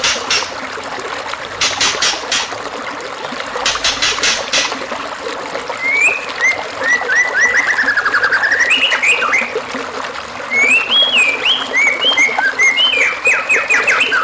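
White-rumped shama song over steadily trickling water: a few sharp clicking notes in the first five seconds, then from about six seconds a varied song of fast trills and whistled notes that rise and fall.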